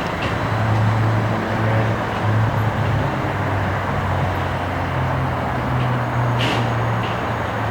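Tram running, with a steady low electric hum under road noise and a brief high squeak about six and a half seconds in.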